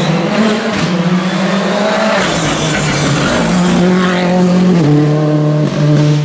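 Rally car engine running hard, its pitch stepping up and down several times as it is driven through the stage. A rush of hissing noise from the tyres comes through about two seconds in.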